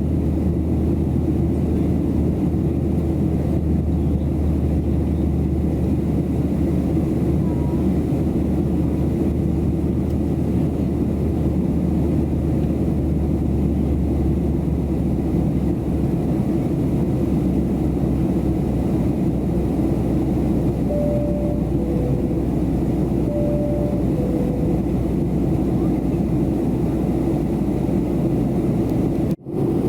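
Steady roar of a Boeing 737-700 cabin in flight: engine and airflow noise, heavy in the low end. About two thirds of the way through, a two-note high-low cabin chime sounds twice in a row.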